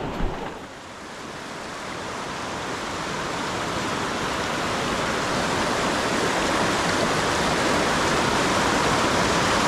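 Rushing river water, a steady hiss of current that grows gradually louder over several seconds, after a brief knock right at the start.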